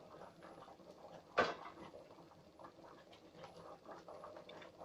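A single sharp knock about a second and a half in, amid light scattered clicks and rustling.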